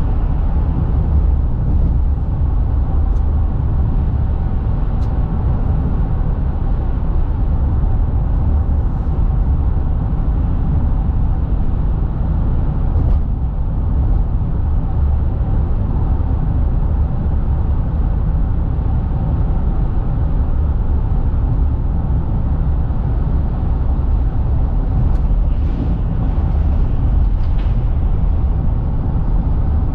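Car driving: a steady, deep rumble of road and engine noise with no change in level, and a few faint ticks near the end.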